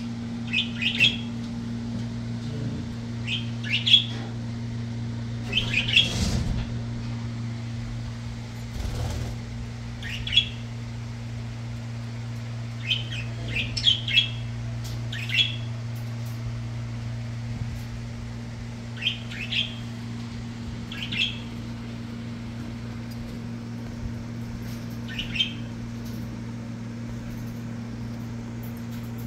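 Budgerigars chirping, short separate calls coming every second or two at irregular intervals, over a steady low hum.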